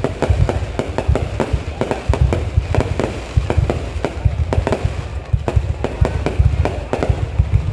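Aerial fireworks going off in a rapid, continuous barrage: many sharp bangs a second over a steady deep booming.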